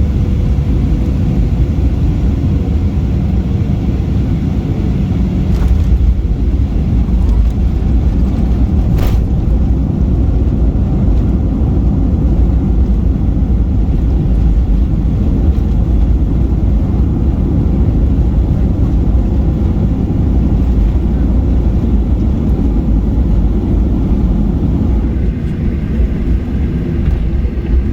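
Steady, loud, low rumble inside a Boeing 737's cabin as it lands and rolls out on the runway, easing a little near the end. A sharp click comes about nine seconds in.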